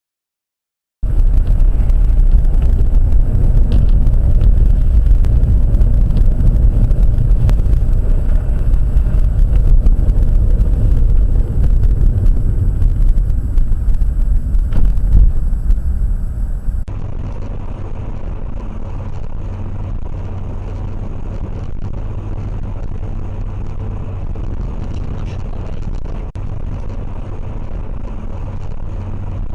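Steady low rumble of a car driving, heard from inside the vehicle, starting abruptly about a second in. It is loud at first, then cuts off suddenly just past halfway to a quieter, similar driving rumble.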